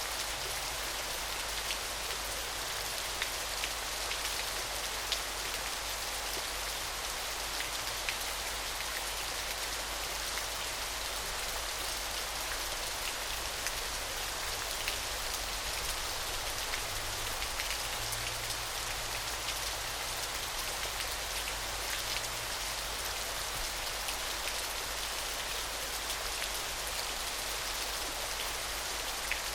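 Small waterfall: a steady hiss of falling, splashing water with a fine patter of drops through it, unchanging throughout.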